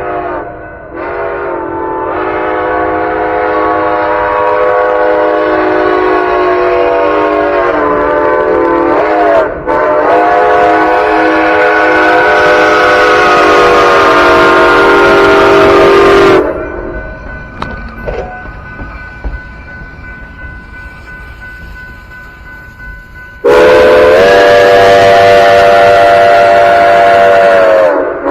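Steam chime whistle of Santa Fe 4-8-4 locomotive 2926, blown in three long blasts, each bending up in pitch as it opens. The first two are nearly back to back; the third comes after a pause of several seconds filled by a quieter rumble of the train.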